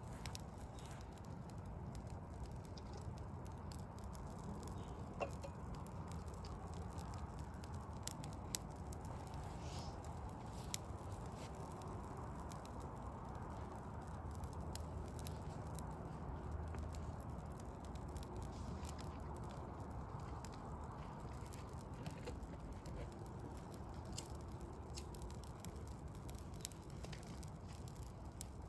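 Wood fire of burning logs crackling, with scattered sharp pops, over a steady low rumble of distant city noise.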